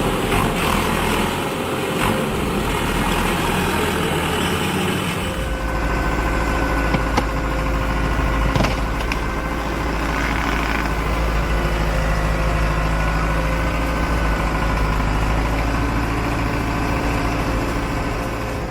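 Tractor engine running steadily, its note changing about five seconds in.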